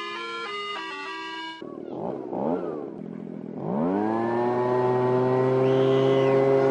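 A few notes of music, then an engine revs up about three and a half seconds in and holds a steady, loud pitch.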